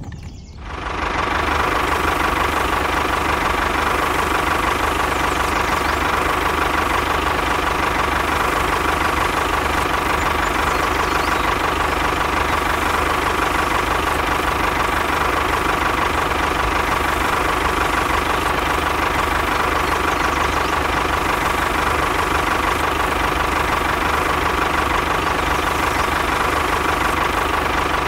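A small motor running steadily at an even speed, with a constant whine; it comes in about a second in.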